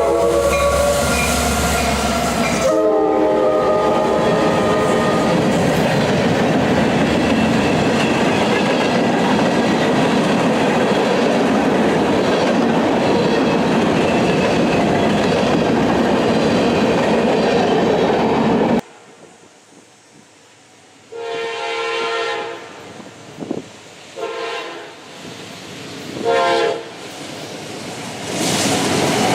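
Locomotive multi-chime air horn sounding as a train passes, dropping in pitch about three seconds in, followed by the loud, steady rumble and clatter of the train's cars rolling by. After an abrupt change about two-thirds through, a fainter horn sounds several separate blasts, and train noise builds again near the end.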